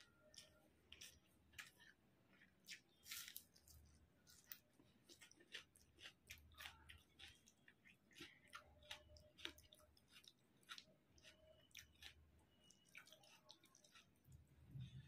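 Faint, close-up chewing of rice and chicken curry, with irregular wet mouth clicks and smacks and quiet sounds of fingers mixing rice into the gravy on the plate.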